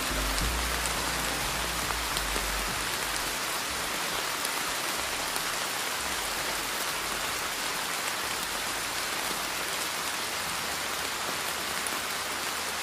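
Steady rain falling, an even hiss of many drops. A low rumble underneath dies away in the first few seconds.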